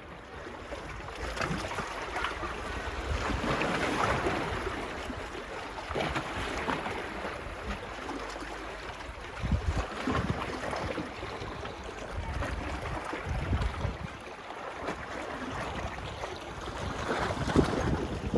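Small sea waves washing onto a beach, swelling and fading every few seconds, with gusts of wind buffeting the phone's microphone.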